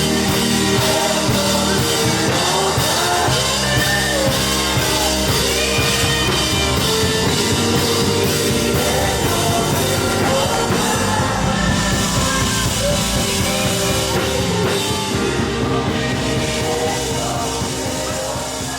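Live worship band playing with drums, with some singing; the music fades down near the end.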